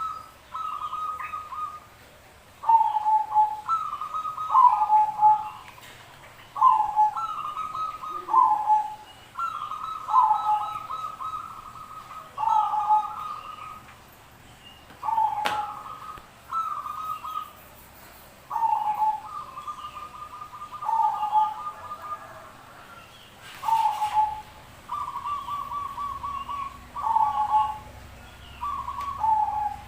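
Zebra doves (perkutut) cooing. They repeat phrases of a quick, stuttering trill that drops to lower drawn-out coos, several birds overlapping and answering one another every couple of seconds. A single sharp click sounds about halfway through.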